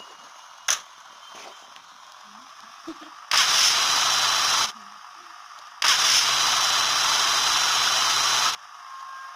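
A loud, even hiss that switches on and off abruptly twice, the second time for almost three seconds, with a faint low hum underneath.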